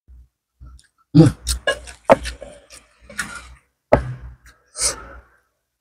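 Close-miked chewing and lip-smacking while eating fried fish and rice by hand. It comes in short, uneven spurts with several sharp, loud smacks.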